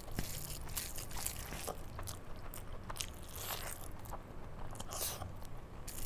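Close-miked wet chewing and lip smacking of a mouthful of curry-soaked rice eaten by hand, with many short clicks and squelches throughout. Fingers squish through the soft rice as the next handful is gathered.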